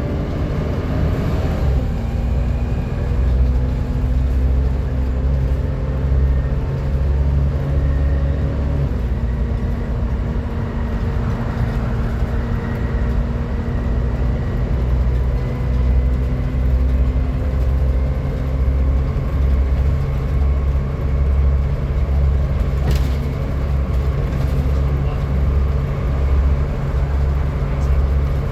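Volvo B7TL double-decker bus running with a loud, steady whine, the 'hoover' sound, over a low rumble from its engine that pulses about once a second. The whine dips slightly in pitch about two seconds in. A single knock comes about three-quarters of the way through.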